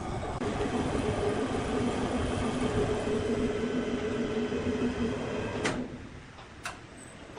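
Sawmill machinery running with a steady hum and grinding noise, then cutting off suddenly about six seconds in with a sharp knock, and another knock a second later.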